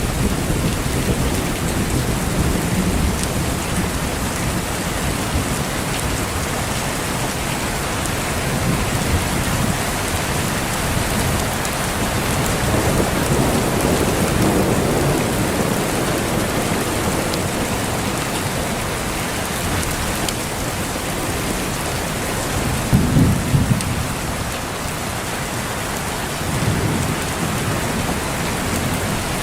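Steady heavy rain pouring, with low thunder rumbling in slow swells and a short, sharper rumble of thunder about 23 seconds in.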